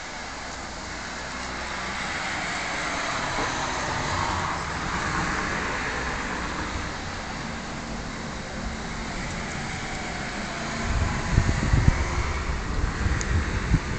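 Steady noise of road traffic swelling and fading over the first few seconds, then loud, irregular low rumbling and buffeting from about eleven seconds in.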